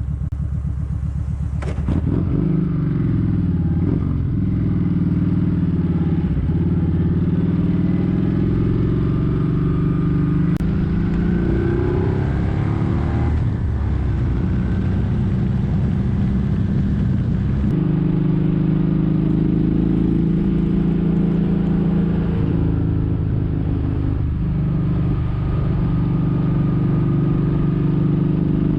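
Kawasaki Vulcan 1700 Vaquero's V-twin engine running under way at road speed, the engine note changing abruptly about two seconds in and again a little past halfway as the gears change.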